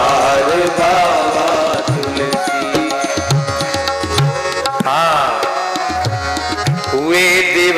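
Instrumental interlude of devotional music: tabla playing a rhythm of repeated deep strokes under a wavering melodic line.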